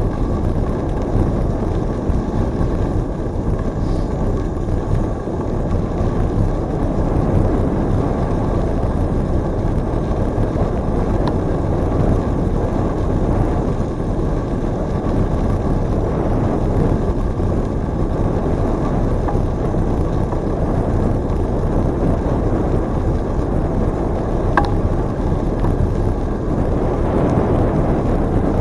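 Steady wind buffeting on the microphone of a camera riding along on a bicycle, mixed with the rumble of the ride, with a couple of faint ticks.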